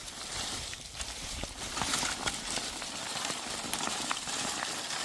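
Hooves of livestock walking over stony ground: an irregular clatter of small clicks and knocks over a steady outdoor hiss.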